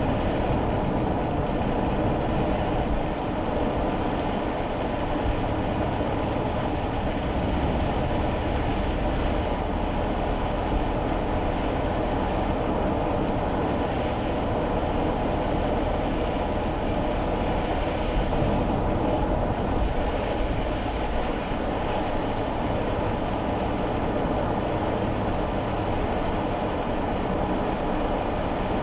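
Steady road and engine noise heard inside a kei car's cabin while it drives on wet roads in the rain: a continuous low rumble with tyre hiss over it, holding even throughout.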